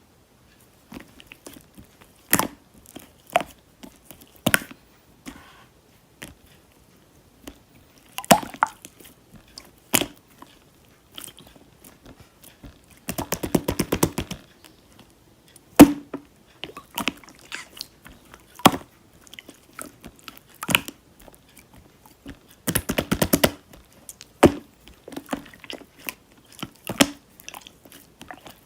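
Slime being worked by hand, making scattered sharp clicks and wet pops. It breaks into two runs of rapid clicking, one about halfway through and one a few seconds before the end.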